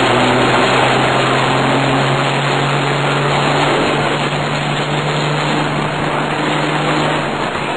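Mercedes-Benz Axor race truck's diesel engine running hard at a steady pitch, heard from inside the cab, over a dense rush of road and wind noise.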